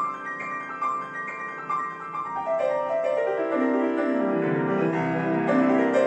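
Solo acoustic piano playing. Repeated high notes struck about twice a second lead into a fast run sweeping down into the low register about halfway through, and the notes are left ringing together.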